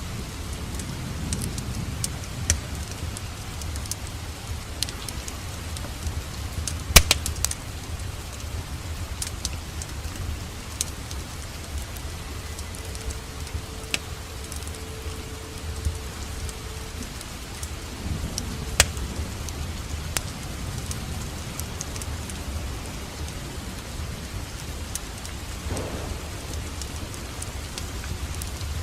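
Steady rain falling together with a wood fire crackling, with scattered sharp pops, the loudest about seven seconds in and again near nineteen seconds.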